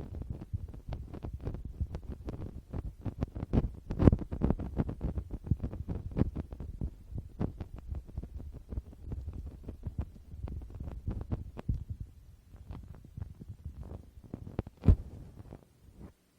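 Fingertips tapping and rubbing directly on a Tascam portable recorder's built-in microphones, giving a dense run of soft, bassy thumps and scratchy clicks. The touching thins out after about twelve seconds, with a louder thump about four seconds in and another near the end.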